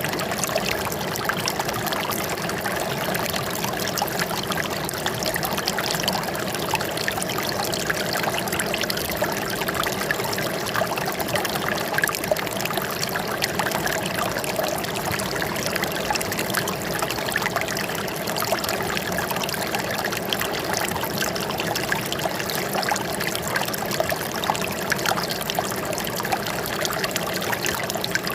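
Water running and trickling steadily over stones, a continuous babbling flow with fine splashes and no change in level.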